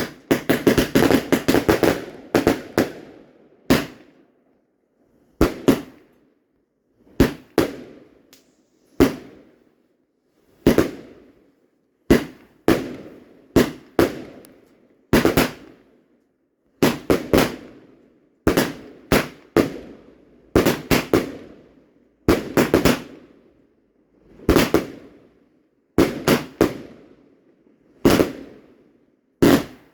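Fireworks going off in quick succession: sharp bangs every half second to a second and a half, each trailing off in echo, with a dense burst of crackling in the first couple of seconds.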